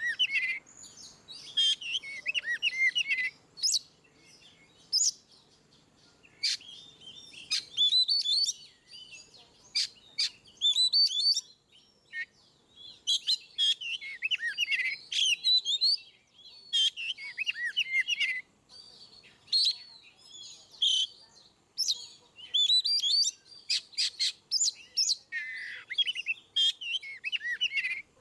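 Oriental magpie-robin (kacer) singing its full, open "ngeplong" song: fast, varied whistled phrases and chattering notes mixed with sharp clicks. The song comes in bursts a second or two long, separated by brief pauses.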